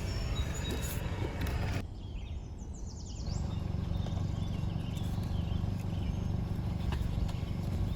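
Steady low rumbling background noise. It thins for a second or two about two seconds in, when a few faint high chirps sound.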